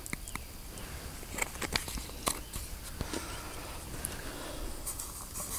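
Wood campfire crackling, with small pops and clicks at irregular intervals.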